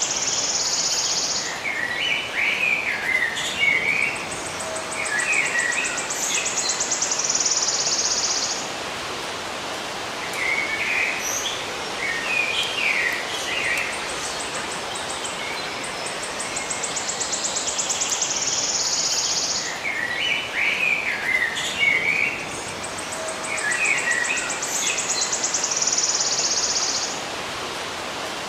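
Songbirds chirping in short, quick phrases, with a high buzzing trill of two to three seconds that comes back several times, over a steady background hiss.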